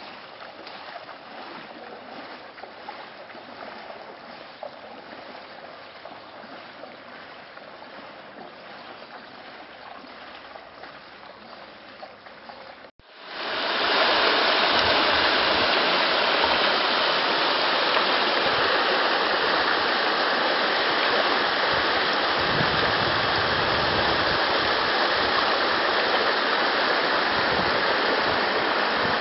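Fast-flowing water rushing steadily, loud and even, cutting in abruptly about halfway through. Before it there is a quieter steady background noise.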